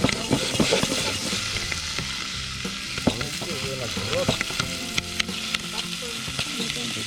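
Popcorn kernels popping in a microwave popcorn bag held over an open fire: scattered sharp pops over a steady sizzling hiss.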